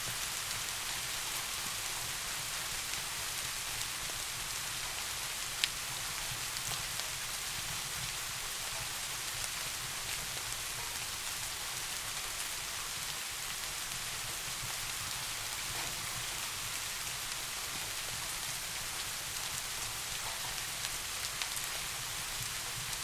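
Steady, even rain falling, with a single sharp tick about five and a half seconds in and a few faint ticks near the end.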